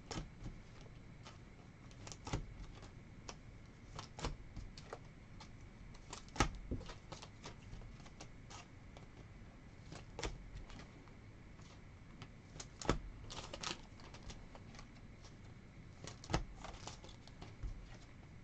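Irregular light clicks and taps of trading cards and their packaging being handled and set down.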